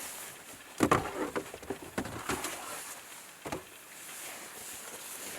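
A few knocks and clattering sounds, the strongest about a second in, more near two seconds and one near three and a half seconds, over a faint steady hiss.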